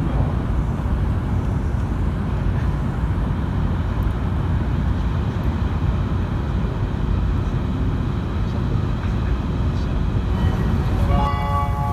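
Steady low rumble of a Joetsu Shinkansen train running, heard inside the passenger cabin. A short chime of a few pitched tones starts near the end.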